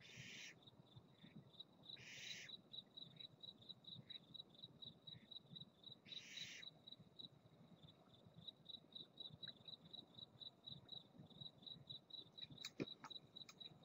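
Barn owl giving faint, raspy hissing calls, three harsh bursts of about half a second each: near the start, about two seconds in and about six seconds in. A cricket chirps steadily and rapidly underneath.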